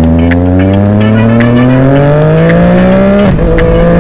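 Motorcycle engine pulling hard in gear, its pitch rising steadily for about three seconds, then dropping suddenly on an upshift and starting to climb again.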